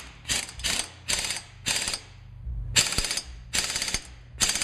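Ratchet wrench clicking in about six short bursts with pauses between them, then a continuous run of clicking just before the end.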